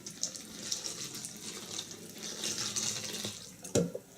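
Milk pouring and splashing into a bowl of Fruit Loops, followed by a short knock near the end.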